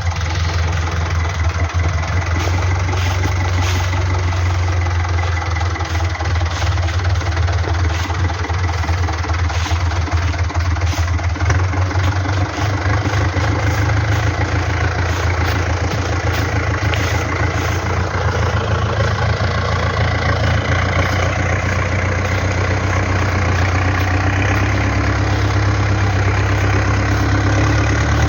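Fiat 640 DTC tractor's four-cylinder diesel engine running steadily, a little louder near the end.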